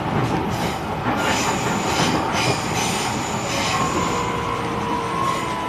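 E129 series electric train running over the rails, heard from inside the car, with a high wheel squeal about a second in. From about four seconds in, the whine of its Toyo Denki IGBT inverter traction drive comes up and slowly falls in pitch as the train slows.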